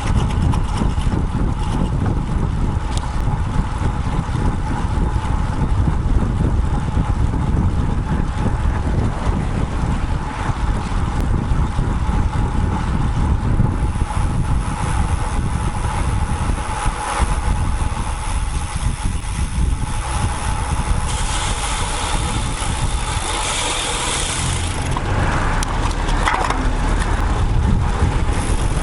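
Wind buffeting the microphone of a bike-mounted action camera on a moving road bike, with road noise and passing traffic. A brighter hiss rises for a few seconds past the middle.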